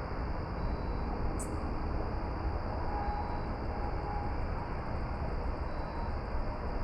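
Steady low rumbling noise, strongest in the bass, with one brief sharp click about a second and a half in.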